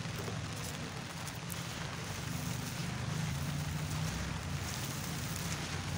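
Steady rain hiss with a steady low rumble underneath.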